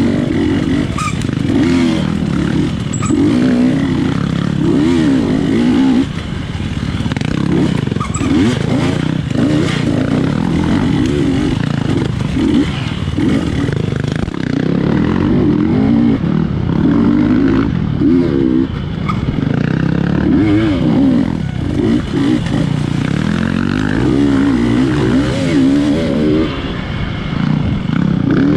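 Dirt bike engine revving up and down continually as it is ridden hard through a tight off-road course, the pitch rising and falling every second or two, with scattered clattering knocks.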